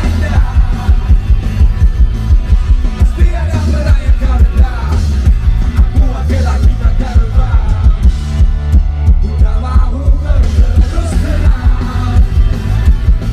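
Live rock band playing loud, with a heavy bass and drum beat under a lead vocal line.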